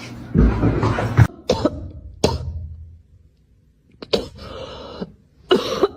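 A small kitten hissing and spitting in short, sharp noisy bursts, with a pause in the middle. The sound is fierce enough to be taken for a bobcat.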